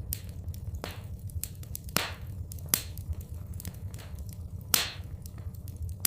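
Wood fire in a fireplace crackling, with a steady low rumble beneath many small sharp clicks. Three louder pops stand out, about two, three and five seconds in.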